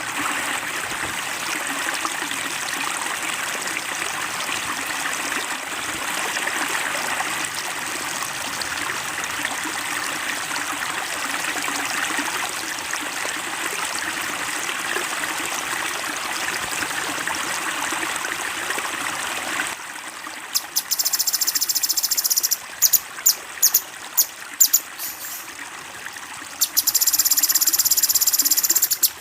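Recorded flowing stream water, a steady trickling rush, for about the first two-thirds. It cuts off suddenly to loud, very high-pitched bird calls: short repeated notes and two long rapid trills from a songbird training recording.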